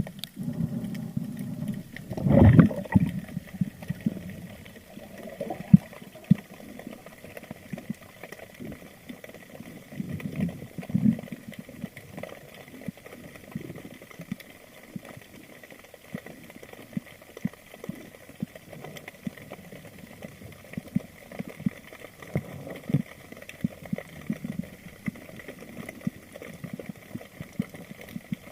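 Muffled underwater ambience: low swells of water movement with many scattered short clicks and crackles, and a larger surge about two seconds in.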